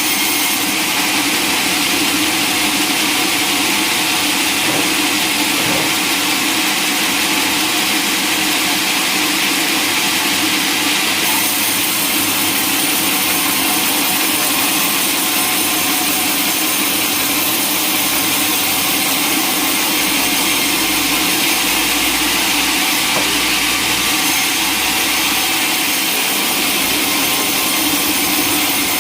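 Sawmill saw cutting steadily through a log, a continuous even whine and rasp with no break.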